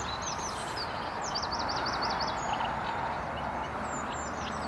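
Small birds chirping and twittering, with a quick run of about six rapid notes a little over a second in, over a steady outdoor background hiss.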